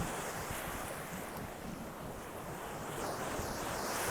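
Ocean surf washing onto the beach, with wind rumbling on the microphone; the wash swells a little toward the end.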